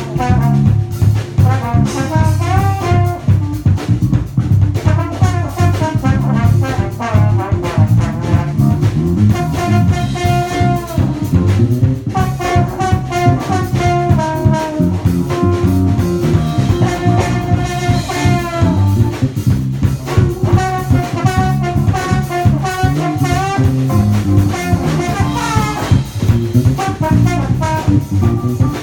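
A live band playing jazzy music: brass horns carry the melody over bass and a drum kit.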